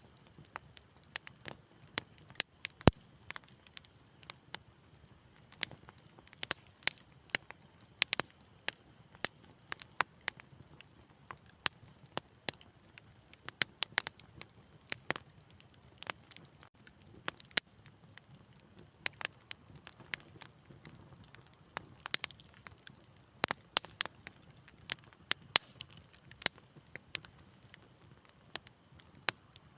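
Wood fire in a fireplace crackling: irregular sharp pops and snaps, several a second, over a faint steady hiss. One louder pop comes about three seconds in.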